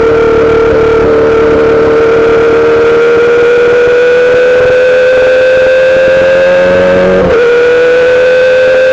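2008 Yamaha R6's inline-four running through a full SC-Project exhaust, held at steady revs with the pitch slowly climbing. About seven seconds in there is a brief dip and catch in the note.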